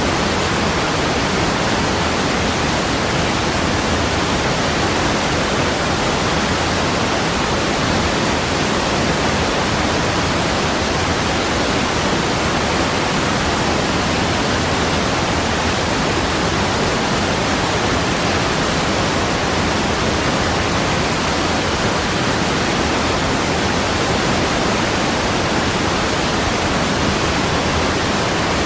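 Steady rushing water, an even, unbroken hiss-like noise with no splashes or changes.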